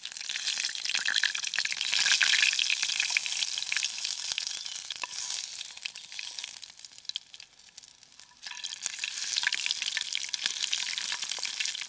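Pork sausages sizzling and frying in a pan, with small clicks and scrapes of a utensil as they are stirred and mixed. The sizzle dies down around seven seconds in and comes back abruptly about a second and a half later.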